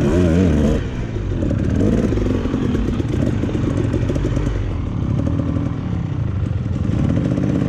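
Dirt bike engine running at low revs, its pitch wavering up and down with small changes of throttle.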